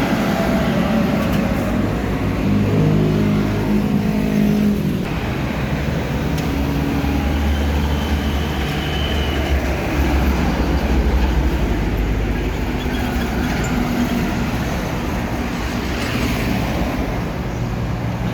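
Road traffic passing close by, trucks and other vehicles driving past, with engine notes rising and falling as they come and go and a heavy low engine rumble in the middle.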